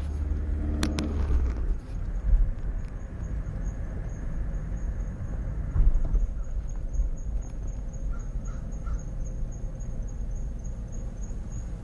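Car driving with a faint, high-pitched squeak pulsing at an even rate from its brakes, over a low road rumble. The squeak is the kind that new brake pads cured here: a sign of worn brake pads.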